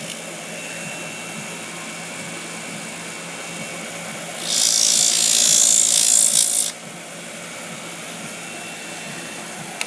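A small power tool runs steadily, and from about four and a half seconds in it grinds the plastic of a medicine bottle for about two seconds, a loud high hiss. It then goes back to running without cutting.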